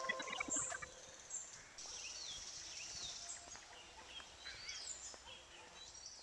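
Faint outdoor birdsong: several short chirps that rise and fall, scattered over a steady hiss of background noise. The last of a chiming music track dies away in the first half second.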